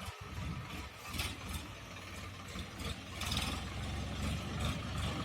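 Sonalika tractor's diesel engine running steadily, getting a little louder about three seconds in.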